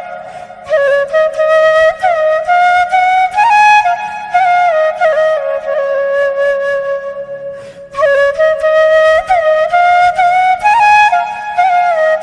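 Background music: a flute melody of held notes with sliding ornaments, pausing briefly about eight seconds in, over a faint low accompaniment.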